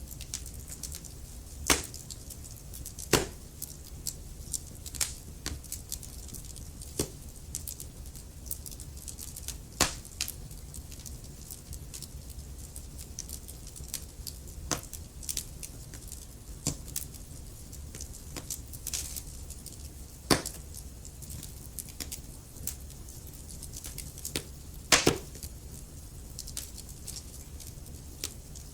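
Fireplace fire crackling: irregular sharp pops and snaps, a few much louder than the rest, over a steady low rumble of the flames.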